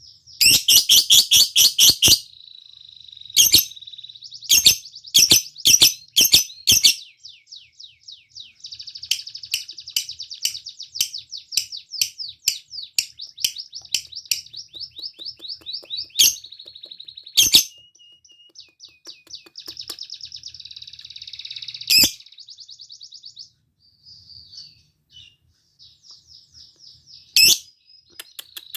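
Lovebird singing ('ngekek'): clusters of loud, shrill chirps, with a long rapid trill of quickly repeated notes for several seconds in the middle, then scattered sharp chirps and softer chatter.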